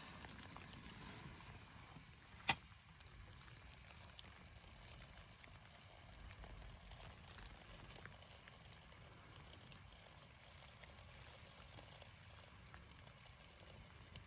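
Near silence: a faint low rumble and hiss, broken once, about two and a half seconds in, by a single sharp click.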